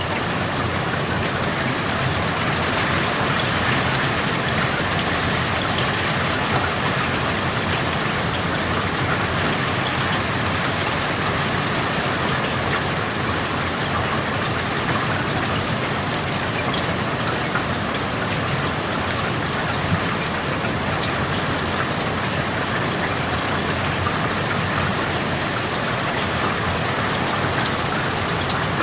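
Steady rain falling and pattering on surfaces, heard through an open window: an even hiss with scattered drop ticks.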